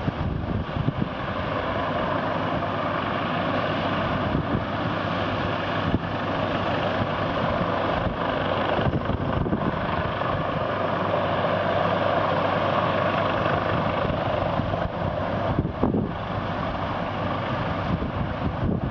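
Helicopter running steadily overhead: a continuous engine and rotor noise.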